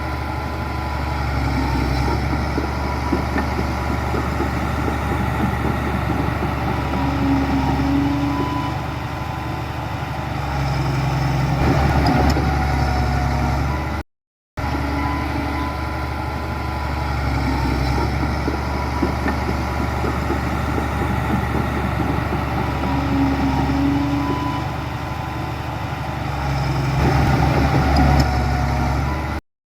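Heavy diesel engine of earthmoving machinery running steadily, with the revs rising briefly under load. The same stretch of engine sound plays twice, broken by a short dropout about halfway through.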